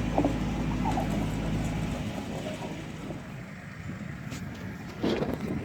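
Kubota L3700SU diesel tractor engine running steadily; about two seconds in its deep low rumble drops away abruptly, leaving a quieter, thinner sound. A brief louder knock or scrape comes near the end.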